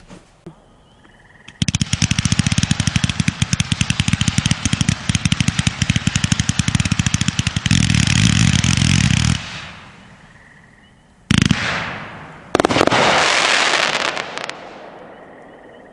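A 149-shot, 500-gram firework cake firing: a fast, steady string of launch shots for about eight seconds, packing tighter and louder into a finale before it stops. Then one sharp bang and a louder hissing, crackling burst that fades away.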